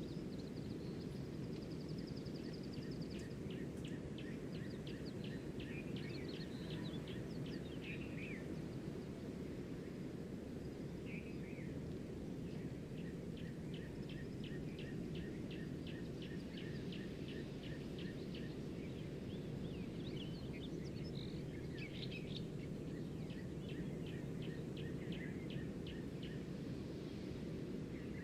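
Birds calling in rapid trills of short chirps, in several bursts, over a steady low rushing background noise.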